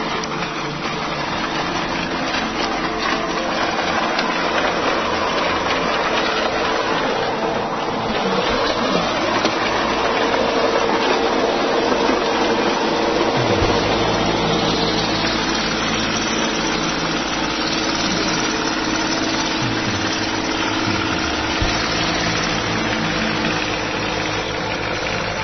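Kubota L245 compact tractor's three-cylinder diesel engine running steadily while it drives an Agrator rotary tiller through soil. The low engine note shifts about halfway through.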